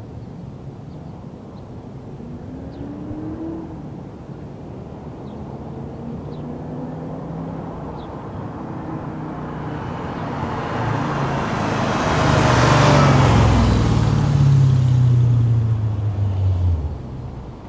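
Audi S4's 4.2-litre V8 with headers and a non-resonated exhaust, approaching under steady throttle and driving past. It grows louder to a peak about two-thirds of the way in, then drops away quickly near the end.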